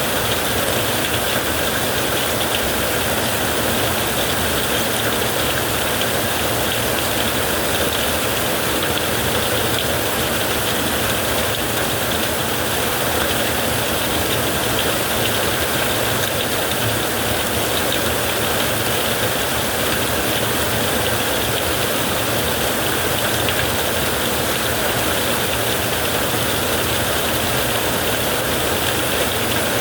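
Heavy rain falling on a tent, a steady, even hiss with no break or thunderclap.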